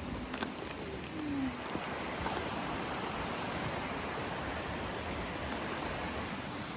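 Rain-swollen creek rushing steadily in high water after heavy rain.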